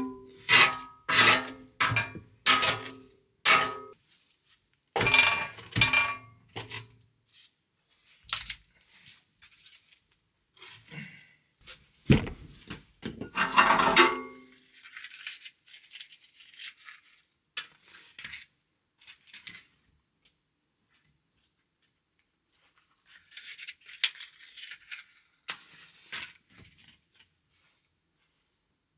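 Plucked-string music fading out over the first few seconds, then scattered clinks, knocks and rubbing of pots and utensils being handled while cooking, with one sharp knock partway through.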